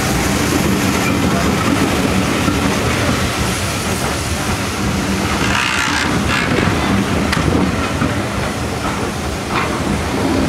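Passenger coaches of a steam-hauled train rolling past close by as the train arrives, wheels clattering on the rails. Steam hisses from beneath the coaches about six seconds in.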